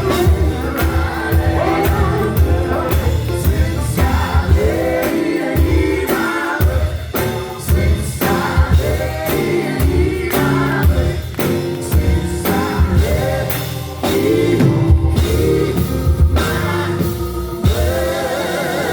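Gospel vocal group singing with a band: wavering, bending vocal lines over bass and drums.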